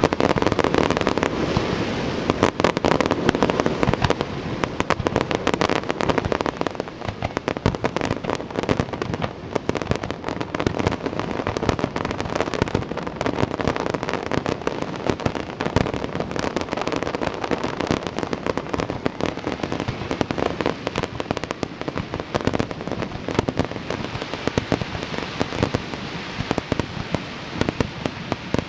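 Aerial fireworks display: a dense, continuous run of rapid bangs and crackling, many bursts overlapping with no pause.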